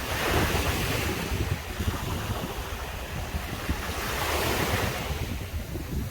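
Sea waves breaking and washing up the beach, two surges about four seconds apart, with a steady low rumble of wind on the microphone underneath.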